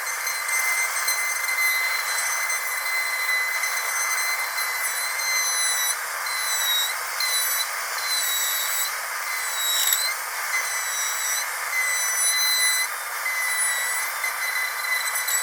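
Dentist's drill whining steadily at a high pitch over a hiss, its pitch dipping briefly a few times midway.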